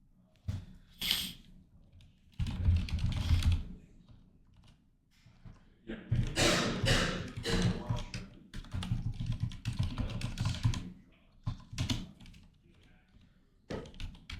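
Typing on a computer keyboard in quick runs of key clicks, with a short burst about two and a half seconds in and a longer run through the middle.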